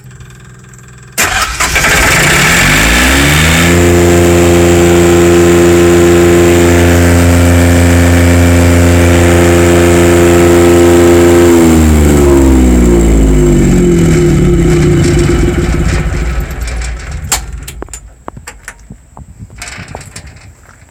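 Home-installed engine generator on a test run: it starts suddenly about a second in, rises in pitch as it comes up to speed, and runs at a steady speed. Just past halfway it is shut off and winds down, its pitch falling until it stops several seconds later. A few faint clicks follow near the end.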